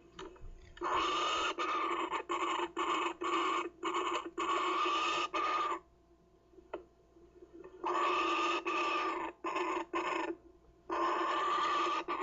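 Kookaburra chick giving harsh, buzzing rasps in long stretches broken by brief pauses: three runs of calling, the first and longest lasting about five seconds.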